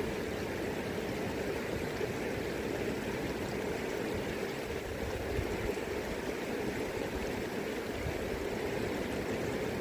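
River water flowing steadily, an even rushing of current with no breaks.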